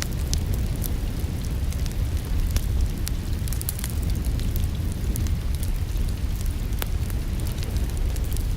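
Crackling wood fire in a fireplace: scattered sharp pops and snaps at irregular times over a steady low rumble, with the hiss of rain mixed in.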